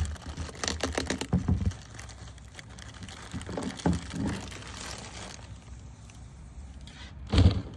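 Protective paper crinkling and rustling as it is peeled off a new taillight, with clicks and light knocks of the plastic housing being handled, and one loud dull thump near the end.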